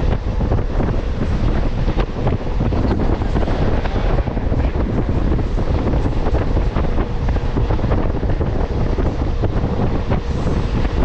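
Wind buffeting the microphone over the steady rumble of a moving MEMU electric train, with many small rattles and clicks.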